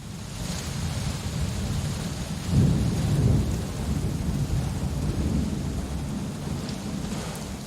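Steady rain falling, with a low rumble of thunder underneath that swells about two and a half seconds in.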